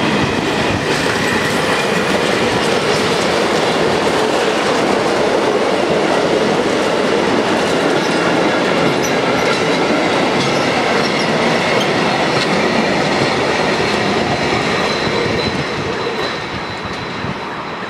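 Freight train wagons rolling past close by: a steady rumble of steel wheels on the rails, with faint high squealing tones. The sound fades near the end as the last wagons go by.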